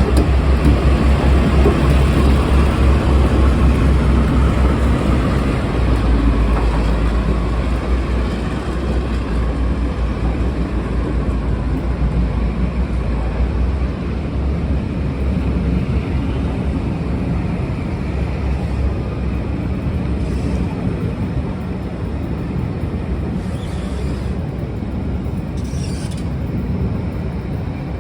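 Class 52 'Western' diesel-hydraulic locomotive D1015's twin MTU V12 diesel engines running with a heavy low rumble that slowly eases off over the stretch. A few short high-pitched sounds come near the end.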